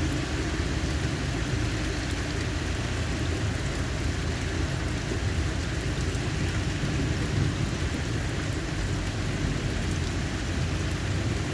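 Steady rain falling hard, with a continuous low rumble underneath.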